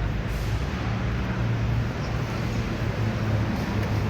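Street traffic: a vehicle engine running nearby with a steady low hum over a continuous wash of road noise.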